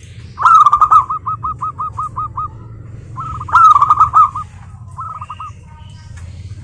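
Zebra dove (perkutut) singing: a rapid run of short, staccato cooing notes about half a second in, a second loud run about three seconds in, then a shorter, fainter phrase.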